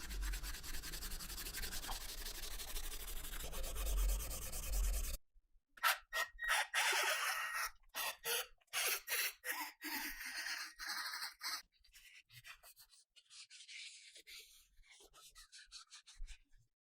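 Abrasive rubbing on the metal parts of an old firearm under restoration. A steady noise with a low hum cuts off abruptly about five seconds in, giving way to a run of short rubbing strokes and then lighter scratching.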